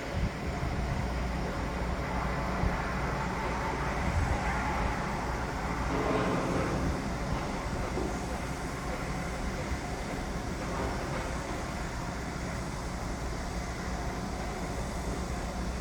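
Construction site noise: a steady low rumble of machinery with a dense noise over it, swelling louder about six seconds in.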